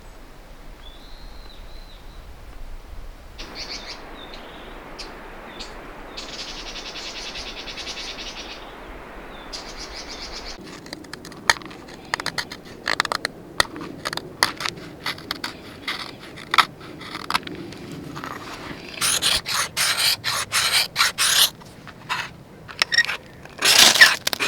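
Wild birds singing, with a short trilled song in the first half. From about halfway a run of sharp crackles and scrapes starts, growing dense and loud near the end.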